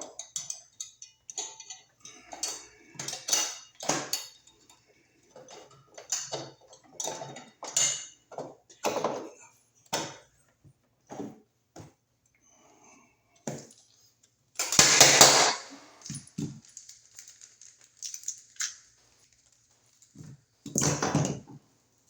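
Hand tools clinking, tapping and scraping against a metal electrical box in irregular short knocks, with a louder noise lasting about a second around the middle and another near the end.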